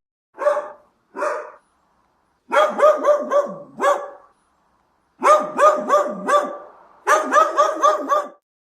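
Dog barking: two single barks, then three quick runs of about five or six barks each.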